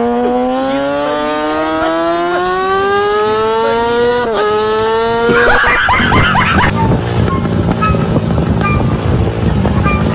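Motorcycle engine revving high and accelerating, its pitch rising steadily, with a brief drop about four seconds in like a gear change. At about five and a half seconds it breaks into a burst of harsh noise lasting over a second, followed by a lower steady rumble.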